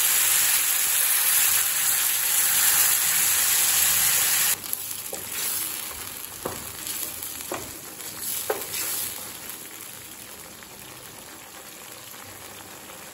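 Wet ground chutney paste sizzling loudly as it hits hot sesame oil in a steel pan; about four and a half seconds in the sizzle drops suddenly to a quieter frying. A few short spatula scrapes follow as it is stirred, and the sizzle grows fainter near the end as the paste cooks down.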